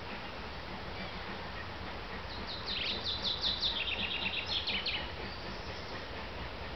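A small songbird singing one phrase of rapid, sharp high notes lasting about two and a half seconds, starting a couple of seconds in. It sounds over steady outdoor background noise.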